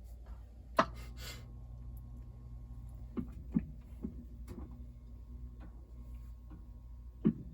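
Clicks and light knocks from a Maytag washing machine being switched off and handled, over a faint steady hum. A loud sharp click comes about a second in with a short hiss after it, then about five lighter clicks follow, one near the end.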